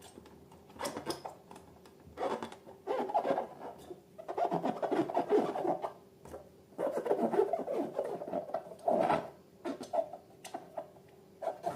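Hands squishing and kneading slime in irregular bursts, with brief pauses between handfuls.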